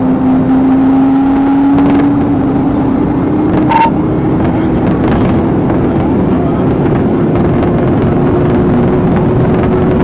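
Engine and road noise of a car driving fast in a pursuit, the engine pitch climbing slowly and steadily as speed builds. A short high beep sounds about four seconds in.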